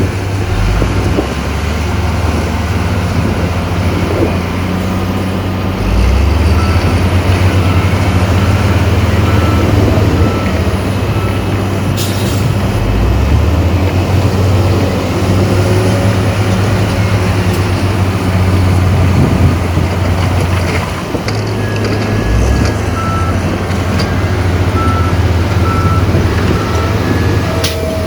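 Heavy diesel earthmoving machinery running steadily under load, with a reversing alarm beeping faintly partway through and again near the end.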